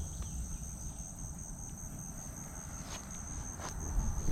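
Insect chorus trilling steadily at a high pitch, over a low rumble, with a couple of faint clicks about three seconds in.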